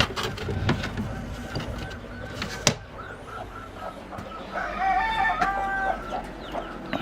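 Rooster crowing once in the second half, one drawn-out call of about a second and a half, over chickens clucking. A sharp knock sounds about two and a half seconds in.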